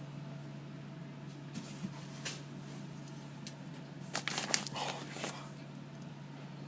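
Wet mud and debris squelching and crackling underfoot in a brief cluster about four seconds in, after a few soft clicks, over a steady low hum.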